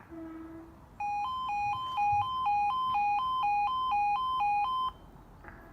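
Railway level crossing yodel alarm sounding its two-tone warning, switching between a lower and a higher pitch about four times a second for about four seconds, then stopping.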